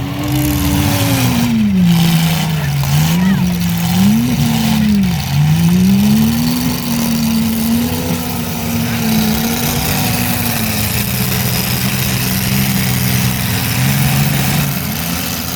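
Mini truck engines revving hard, rising and falling in pitch several times in the first few seconds, then running at a steadier, high pitch.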